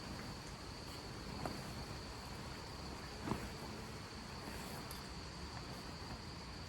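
Crickets trilling in one steady, unbroken high-pitched tone. Two soft knocks come about a second and a half in and about three seconds in, the second the louder.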